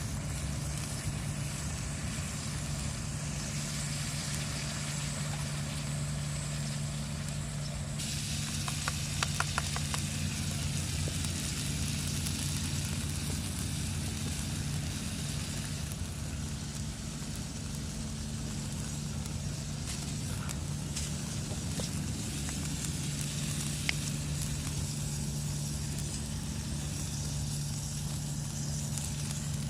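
Food sizzling in a frying pan over a small fire; the hiss grows louder about eight seconds in, with a brief run of clicks soon after. A steady low hum runs underneath.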